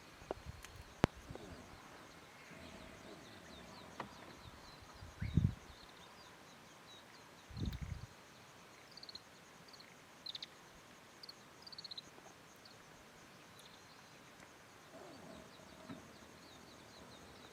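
Faint outdoor ambience with short, high chirps of small birds scattered through it, a sharp click about a second in, and two brief low thumps.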